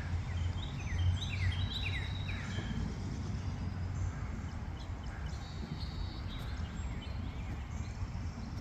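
A small songbird chirping a quick series of short, falling notes for the first few seconds, over a steady low rumble of outdoor background noise.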